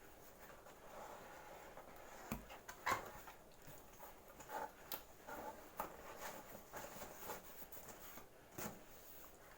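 Scattered light clicks and knocks of objects being handled, with two sharper knocks a little after two seconds and about three seconds in.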